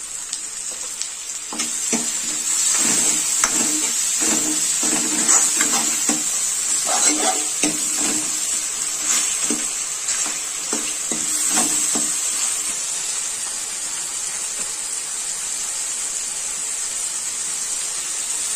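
Tomatoes, onions and spices frying in hot oil in a metal kadhai, sizzling steadily. A ladle scrapes and knocks against the pan in quick strokes from about two seconds in until about twelve seconds in, then only the sizzle goes on.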